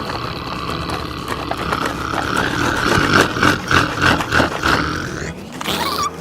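A long, wavering growling roar, like a child voicing a truck engine, over scraping strokes as a toy front loader is worked in dirt.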